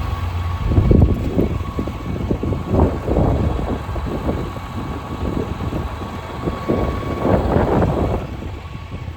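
Wind buffeting the microphone in irregular gusts, over a thin steady whine.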